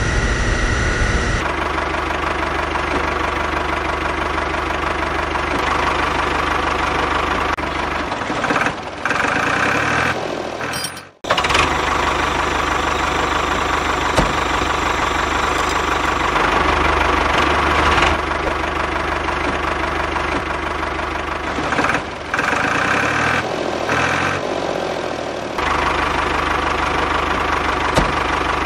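Engine running steadily with a rhythmic knock, like a tractor engine. It cuts out sharply for a moment about eleven seconds in and shifts in tone a couple of times.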